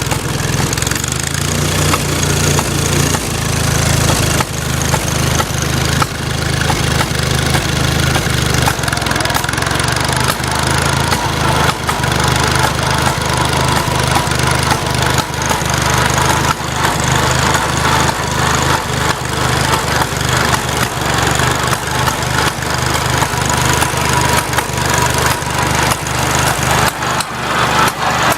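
Farmall Cub's four-cylinder flathead engine running steadily, broken by frequent sharp pops: the popping noise whose cause the owner does not know.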